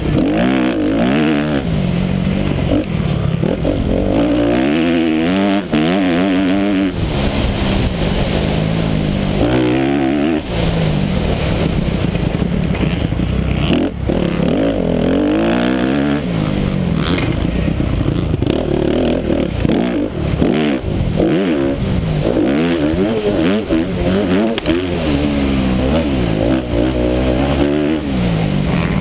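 A 250-class motocross bike's engine revving hard, its pitch climbing and dropping again and again as the rider works the throttle and shifts through the gears. A few sharp knocks come through as the bike hits the track.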